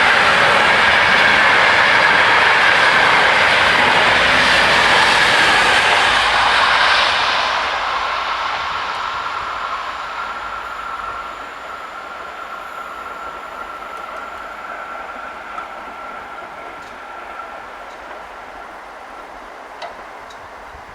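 A train passing over a level crossing, loud for the first seven seconds or so and then fading steadily as it moves away. A thin, steady high tone lingers under the fading noise until near the end.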